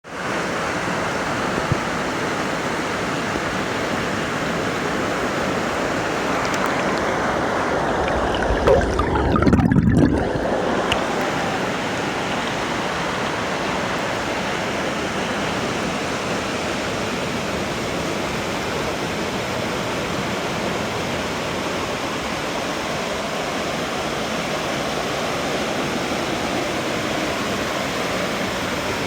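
Waterfall rushing with a steady, even roar of falling water. A brief low rumble rises over it about a third of the way in.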